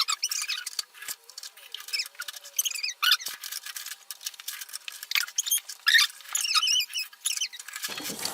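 High-pitched wavering squeaks over many sharp clicks and rattles of plastic toys being handled.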